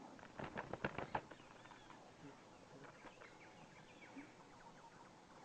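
A quick run of about six sharp taps in the first second, then faint, short bird chirps repeating.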